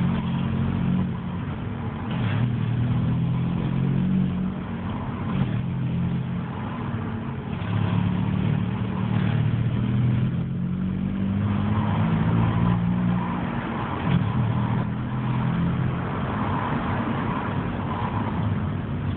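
Opel Astra G's engine being revved or accelerated, its pitch rising and falling several times, while a noise the owner hears on acceleration is being shown.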